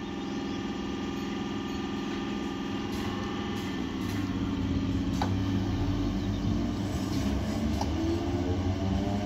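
Old EMU electric local train running along the track, with a steady motor whine over a low rumble that grows louder over the first few seconds, and a few sharp clicks.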